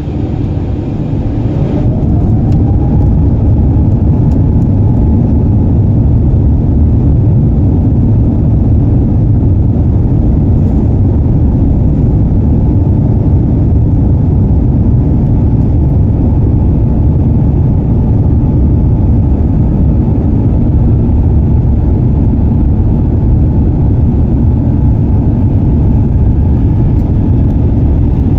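Airbus A350-900's Rolls-Royce Trent XWB engines spooling up to take-off thrust, heard from inside the cabin: a whine rises over the first couple of seconds, then a loud, steady rumble of the take-off roll.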